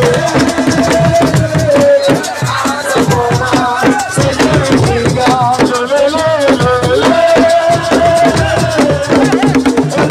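Assiko band music: drums and shaken rattles keep a dense rhythm under a held, wavering melody line.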